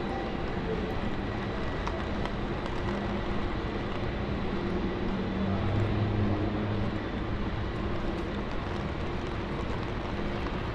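City street traffic: a steady hum of vehicles, with a heavier vehicle's low engine note swelling as it passes about halfway through.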